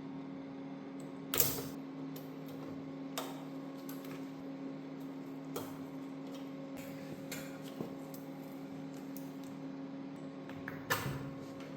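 Scattered clicks and knocks of hand tools and metal parts being handled, with a louder knock about a second and a half in and another near the end, over a steady low hum.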